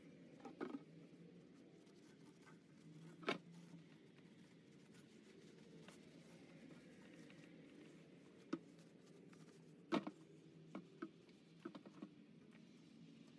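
Faint scratching and handling noises from hand work, with a few light knocks and clicks, the sharpest about three seconds in and about ten seconds in.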